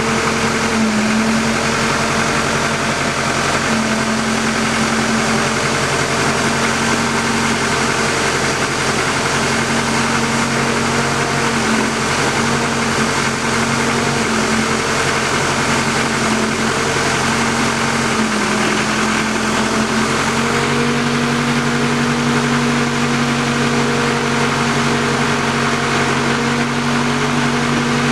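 Engine of an auger pile-drilling rig running steadily, with no hammer blows. Its pitch steps up slightly about two-thirds of the way through.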